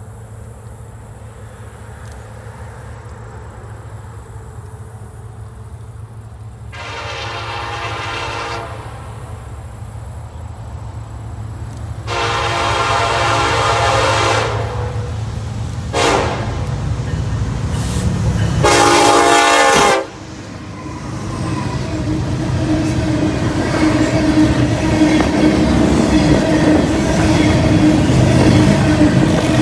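Approaching diesel freight locomotives sounding their multi-chime air horn in a long, long, short, long pattern, the standard grade-crossing signal, over a building engine rumble. After the last blast ends about twenty seconds in, the locomotives pass close by with engine drone and wheels clacking over the rail joints.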